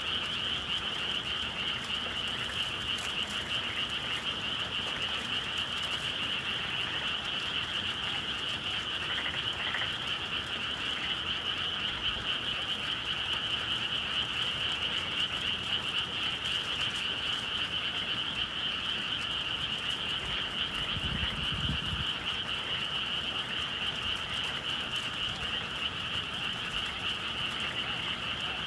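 Dense chorus of many frogs calling without pause, a steady high trilling mass of calls. A brief low rumble about two-thirds of the way through.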